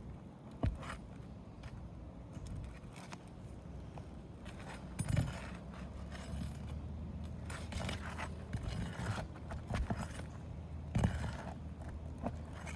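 Hand work on an asphalt-shingle roof: scattered scraping, rustling and clinks, with a few sharp knocks, the loudest about five seconds in and again near eleven seconds in.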